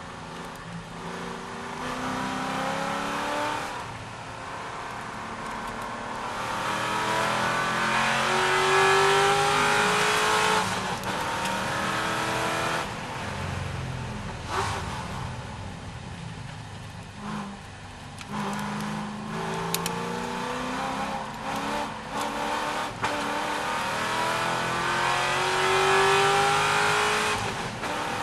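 C6 Corvette's V8 engine at racing speed, its pitch climbing through the revs and dropping again over and over as it shifts gears and lifts, with a run of short, choppy lifts in the middle.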